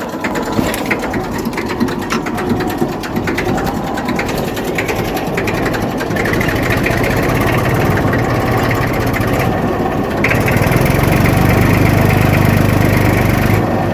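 1990 Massey Ferguson tractor's diesel engine running, getting louder about six seconds in and louder again about ten seconds in, as if taking load.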